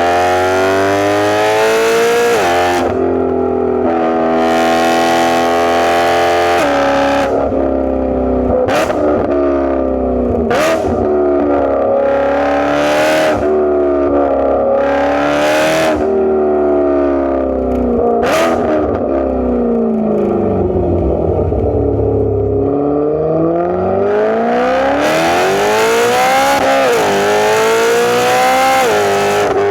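BMW E92 M3's 4.0-litre V8 through a straight-piped exhaust with catless test pipes. It revs up hard through two quick upshifts, then winds down through several short sharp bursts as the revs fall, and pulls up again through another upshift near the end.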